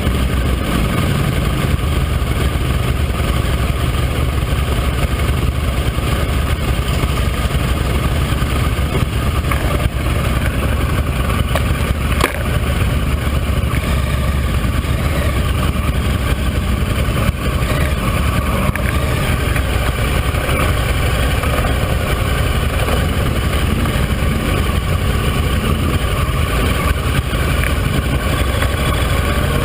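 Motorcycle engine running steadily as the bike rides along, heard from on the bike, with one short click about twelve seconds in.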